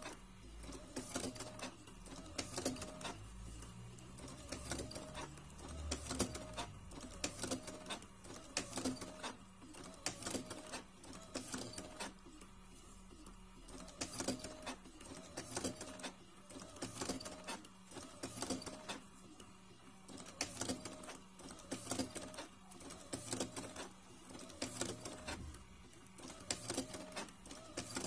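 Makermatik electric cigarette-rolling machine with a tobacco hopper running in repeated cycles, its motor and mechanism clicking in a pattern that comes round every two to three seconds as it fills one tube after another.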